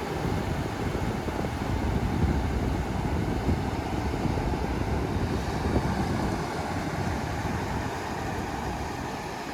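Wind buffeting the microphone: a steady, low rushing noise.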